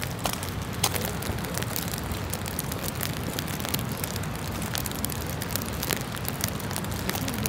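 Steady rain, with many sharp drop ticks close by.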